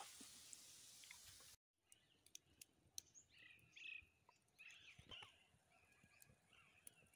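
Faint bird chirps over quiet outdoor ambience, with a few faint scattered clicks. A steady hiss fills the first second and a half and cuts off abruptly.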